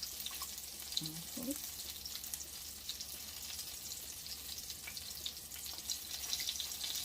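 Panko-and-flour-breaded chicken breasts frying in shallow oil: a steady crackling sizzle of many small pops.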